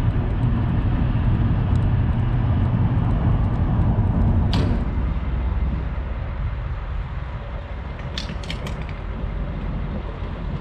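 Road and engine noise inside a moving Nissan Altima's cabin, a steady low rumble. A sharp click about four and a half seconds in, after which the rumble is quieter, with a few light clicks near the end.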